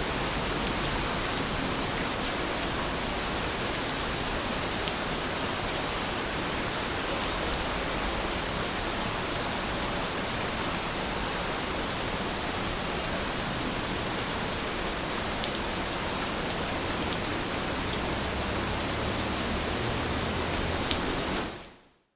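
Steady rain falling, an even hiss with a few faint drop ticks; it fades out quickly near the end.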